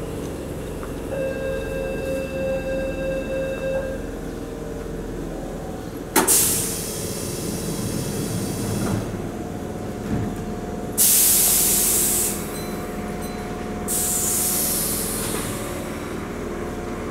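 Keihan electric commuter train standing at the platform, letting off three loud hisses of compressed air, the first sudden and fading over a few seconds, over a steady electrical hum. A few steady electronic tones sound near the start.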